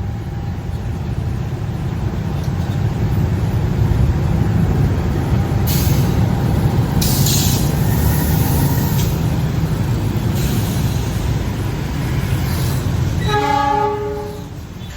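A train passing close by at a level crossing: a loud, steady rumble of wheels on rail with several hissing surges as the cars go by. The rumble falls away near the end, just as a brief tone with several pitches sounds.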